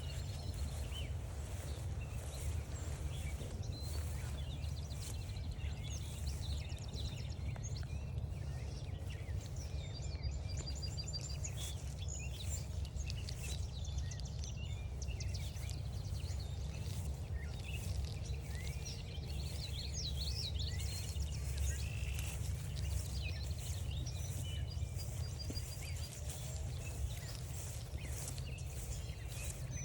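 Several wild songbirds chirping and trilling, many short calls overlapping, over a steady low rumble.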